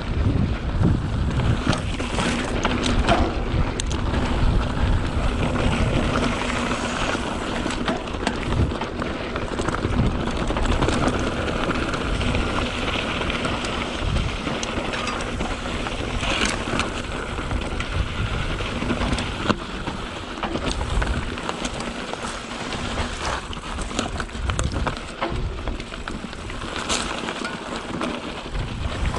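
Mountain bike riding down a dirt and rock trail: wind buffeting the microphone, tyres grinding over the ground, and a steady run of clicks and knocks from the bike rattling over bumps.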